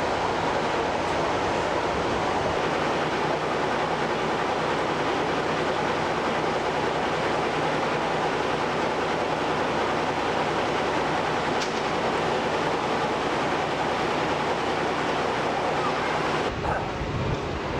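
Diesel-hydraulic locomotive-hauled train running steadily, a broad even rushing noise with a faint low engine drone beneath. About a second before the end the sound cuts suddenly to gusty wind on the microphone.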